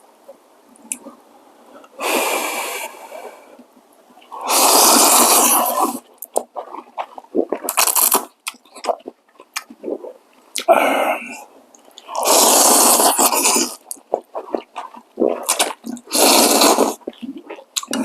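Slurping hot spicy ramen noodles in a series of long, loud slurps, about six in all, with small wet mouth clicks and chewing noises between them.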